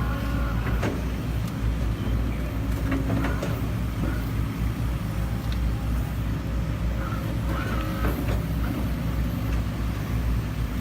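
Heavy diesel engine of a JCB JZ140 tracked excavator running steadily with a low rumble, with a few faint clanks scattered through.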